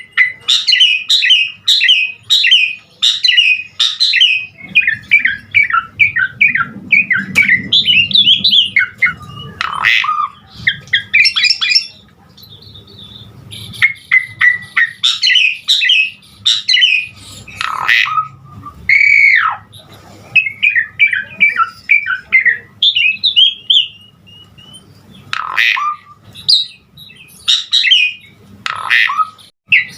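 Jalak suren (Asian pied starling) singing a busy, loud song full of mimicked phrases: fast runs of chirps and squawky notes with short pauses, and a clear whistle that rises and falls about two-thirds of the way through.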